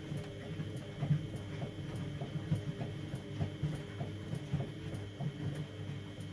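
Siemens Extraklasse XLs 140 A front-loading washing machine running a 60°C cotton wash: a steady motor hum with soft, irregular knocks about twice a second as the drum turns the laundry.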